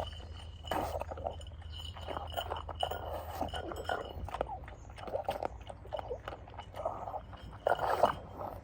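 A pug crunching and chomping dry kibble, with irregular crunches throughout and a louder cluster of chomps near the end.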